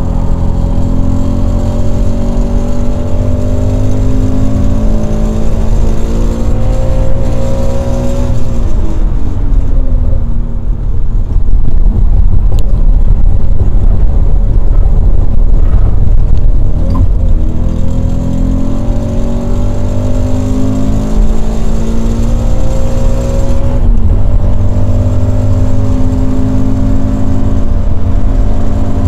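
Toyota GT86's FA20 flat-four engine heard from inside the cabin under heavy road and wind noise. It revs up hard in third gear, then its pitch drops away as the driver lifts off about a third of the way in. It picks up again past halfway, with a shift into fourth about three-quarters through and the revs climbing once more.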